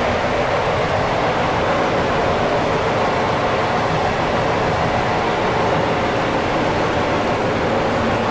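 Steady rolling noise of a vintage passenger carriage running at speed on the rails, heard from inside the carriage.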